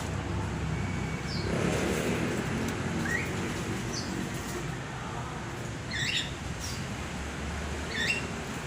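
Birds giving scattered short chirps, several of them quick rising notes, over a steady low rumble.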